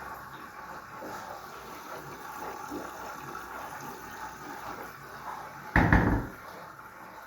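Candy front-load washing machine running with a steady watery rush, and one loud thump lasting about half a second, about six seconds in.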